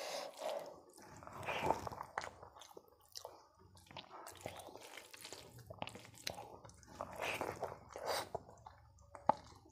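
Close-miked wet chewing of soft rice and lentil dal, mixed with squishing as fingers mash the rice and dal together on a steel plate, in irregular bursts. A sharp click near the end.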